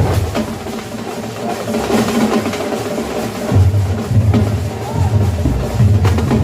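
Tamate frame drums beaten with sticks in a fast, dense rhythm of sharp strokes. Deep booming beats drop away about half a second in and return about three and a half seconds in.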